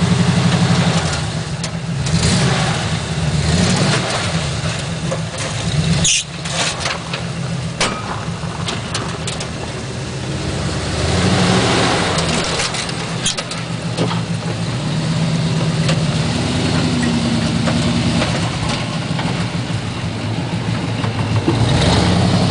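A 4x4 off-road vehicle's engine running and revving up and down several times, with a few sharp knocks about a quarter of the way in.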